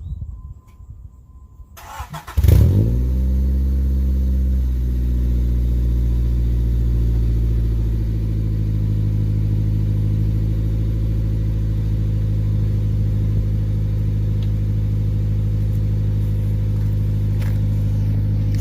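Car engine started about two seconds in with a brief loud flare, then settling into a steady idle that drops slightly in pitch a couple of seconds later. It runs through a newly fitted aftermarket muffler that is clamped on, not yet welded.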